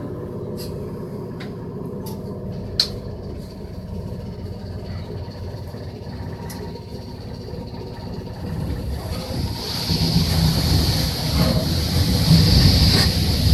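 Toyama Chihō Railway electric train running slowly, a steady rumble with sharp clicks at an even pace. A louder rushing noise builds from about nine seconds in.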